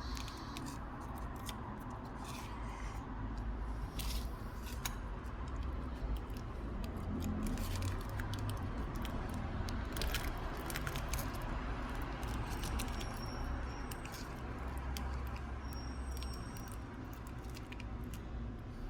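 Scattered small clicks, ticks and scrapes of metal tools working on the small parts of a phone's back glass, over a low steady background rumble.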